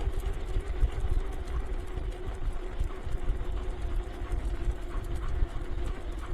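Wheels of a dog-drawn street sled rolling over pavement: a steady low rumble with a faint steady hum.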